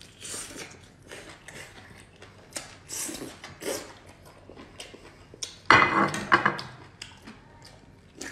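Close-miked eating sounds: a stream of short wet chewing and smacking noises as geoduck and other shellfish are bitten and chewed, with a louder, sudden noisy burst about six seconds in.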